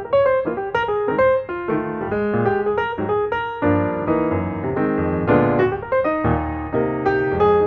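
Background piano music: a flowing melody over chords, notes struck in quick succession.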